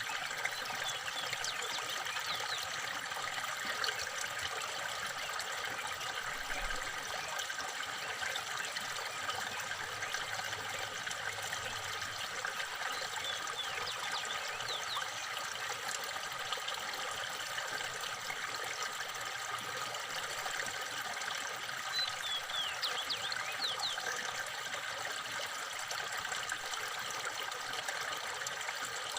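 Steady trickling, running water, with faint brief bird chirps now and then, a short cluster of them a little past the middle.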